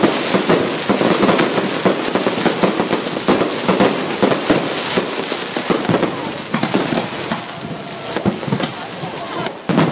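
Many fireworks going off at once: a dense, continuous run of sharp bangs and crackles, easing off a little in the second half.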